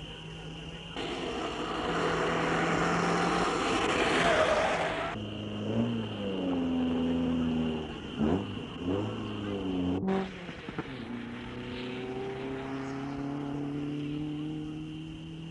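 Rally car engines revving hard, the pitch rising and falling through gear changes, with a loud rushing noise in the first few seconds. After an abrupt cut about ten seconds in, an engine note climbs steadily as a car accelerates away.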